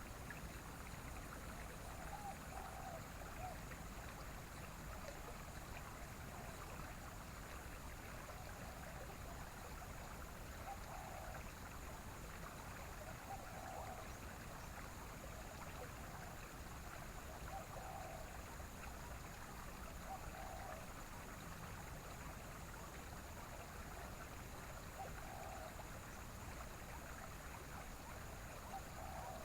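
A stream running steadily, with faint short low notes recurring every few seconds.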